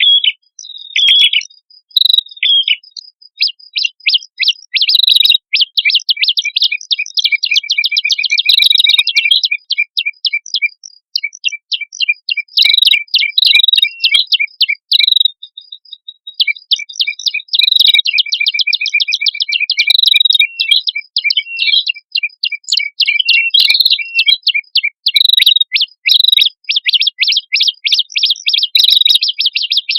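Prenjak kepala merah, a male and a female, singing together in loud, fast, high-pitched chattering trills of rapid repeated notes. There are brief pauses about a third of the way in and again near the middle.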